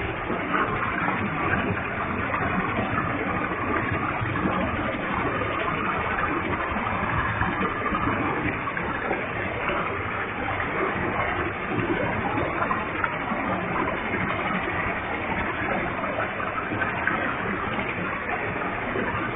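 Waterfall with a heavy flow of water, a steady, unbroken rush of falling and splashing water.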